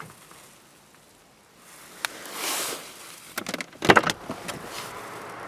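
Handling noises of a parked Volkswagen Passat B5 with the engine off: a click at the start, another click and a short rustle about two seconds in, then a quick run of clicks ending in one sharp knock about four seconds in, like a car door latch being worked.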